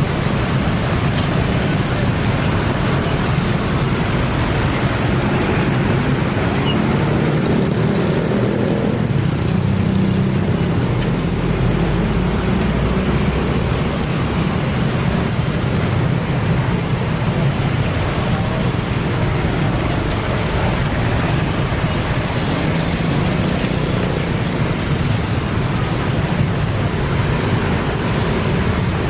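Steady, loud road-traffic noise, a continuous rumble of engines and tyres with no clear approach or fade.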